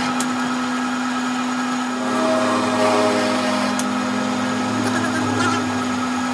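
Electric motor of a workshop machine running with a steady hum. From about two seconds in, a second, lower machine sound joins for a few seconds, with a few sharp clicks.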